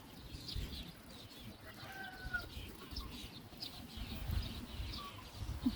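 Faint farmyard bird calls: many short high chirps, with one longer, slightly falling call about two seconds in, over a low rumble.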